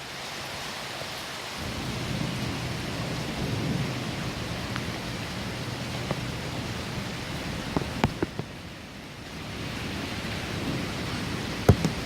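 Heavy rain falling steadily with wind, with a low rumble swelling up in the first half and a few sharp drip-like knocks about eight seconds in and again near the end.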